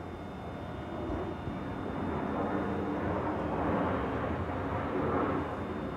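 A train running past on the station tracks: a rumble that builds and is loudest about four to five seconds in.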